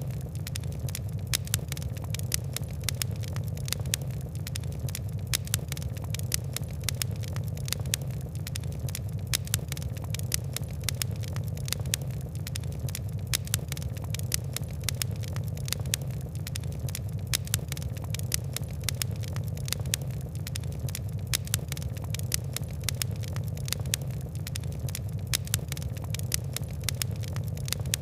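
Fire crackling: a dense, irregular run of sharp pops and ticks over a steady low rumble.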